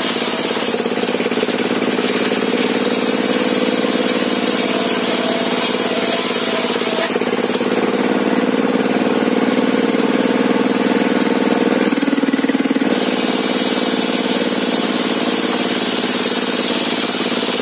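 The engine driving a home-built sawmill table saw runs steadily at a constant speed. Its tone shifts briefly about twelve seconds in.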